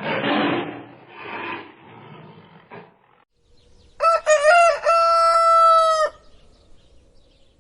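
A rooster crowing once: a call of about two seconds that opens with a few short rising notes and then holds one long, even note. Before it, two short rough, rasping calls come from another animal.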